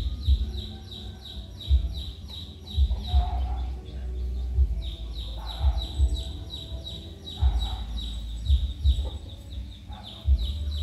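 A bird chirping steadily, a quick falling chirp repeated about four times a second, over low thumps and rumbling.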